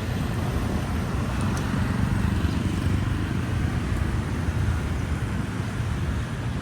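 Motorcycle running through city traffic, a steady low rumble of engine and road noise.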